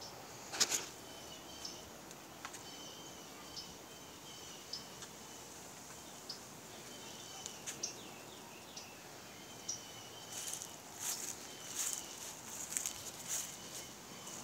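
Outdoor garden ambience: a steady hiss with short, high bird chirps repeating every second or so. A run of crackling footsteps on grass and mulch fills the last few seconds.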